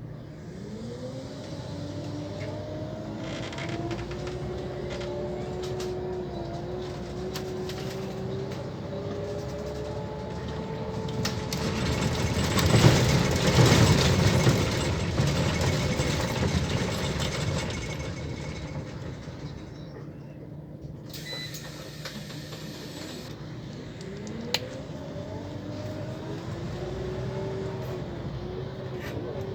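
Scania CL94UB bus pulling away with its ZF automatic gearbox whining, the whine rising in pitch and then levelling off as the bus gathers speed. In the middle a louder rushing noise swells up and fades, and near the end the whine rises again as the bus accelerates once more.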